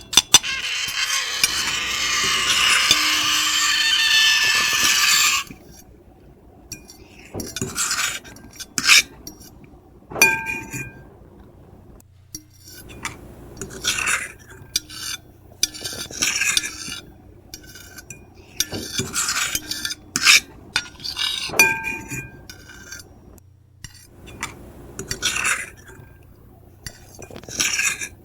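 Metal fork and knife scratching across a plate: one long continuous scrape lasting about five seconds at the start, then a string of short scrapes and clinks, some leaving a brief ringing tone from the plate.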